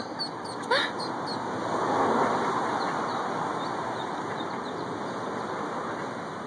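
Street traffic noise that swells about two seconds in, as a vehicle passes, then eases off. Ducklings peep faintly, mostly in the first second or so.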